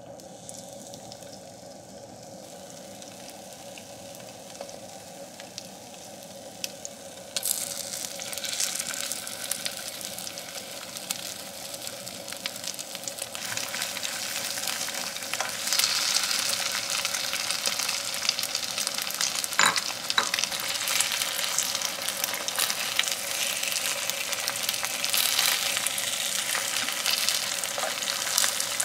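Egg-coated kimbap slices sizzling in hot oil in a nonstick frying pan; the sizzle starts about seven seconds in and gets louder as more slices go into the pan, with a few sharp clicks partway through. A faint steady hum runs underneath.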